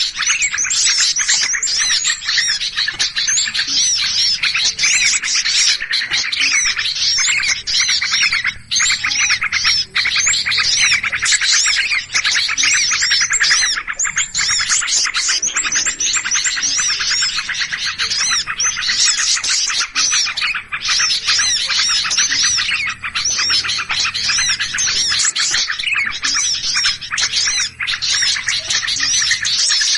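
Dense, nonstop chattering and chirping of many small songbirds calling over one another in agitation. It is a 'pikat' lure recording of noisy, alarmed birds, used to draw small birds in.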